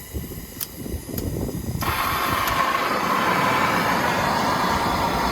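A gas torch lit about two seconds in and then running with a steady roar, heating a slit steel rod end so it can be spread apart.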